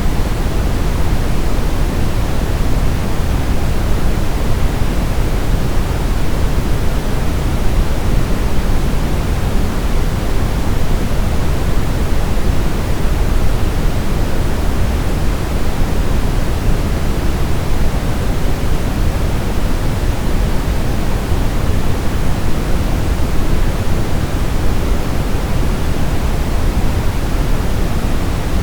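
Brown noise: a steady, unbroken hiss weighted toward the low end, deep and rumbling with little treble.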